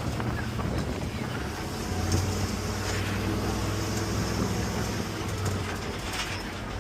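Vehicle engine running with a steady low hum, growing louder for a few seconds in the middle.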